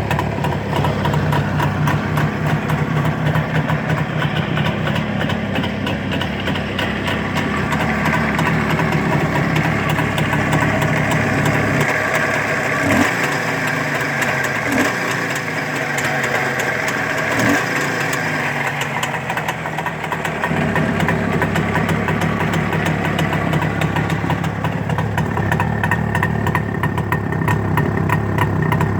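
Jawa 634's two-stroke twin-cylinder engine running at idle after a full rebuild, with a steady rapid beat. For several seconds in the middle the note changes, with less low rumble and more high-pitched sound.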